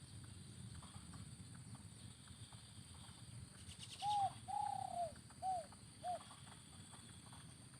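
A spotted dove's cooing phrase about four seconds in: four soft arched coos, the second drawn out longer than the others, over a faint low background rumble.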